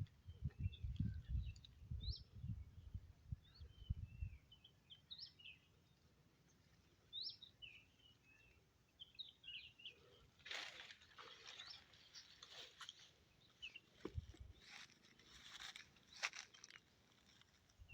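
Small birds chirping faintly and repeatedly. There are low thumps in the first few seconds, and from about ten seconds in there is crunching and rustling of dry leaves and brush underfoot.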